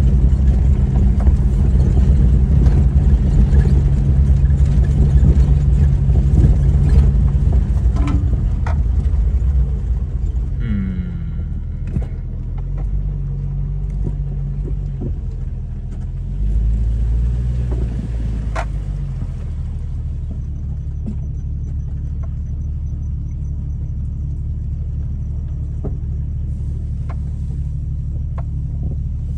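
Jeep Cherokee driving on a rough dirt track: a steady engine and drivetrain rumble with scattered clicks and knocks. It runs loudest in the first ten seconds or so, then settles steadier and a little quieter about twenty seconds in.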